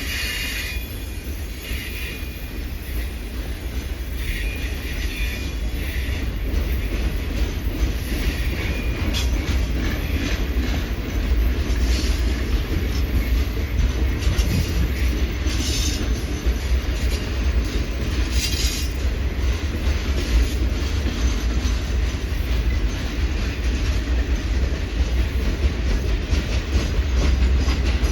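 Norfolk Southern Triple Crown RoadRailer freight train rolling past, a steady rumble of wheels on rail that slowly grows louder, with short wheel squeals and clicking at the rail joints now and then.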